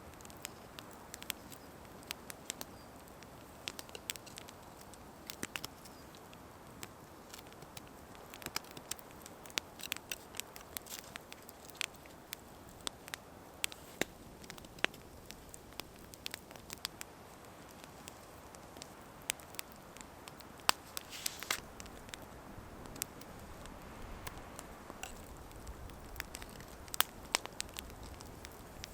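Small wood campfire crackling: sharp, irregular pops and ticks, a few a second, over a faint steady hiss.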